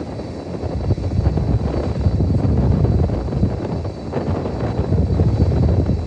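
Boeing 767-300 jet engines running with a deep, rough rumble that swells and dips, over a faint high steady whine.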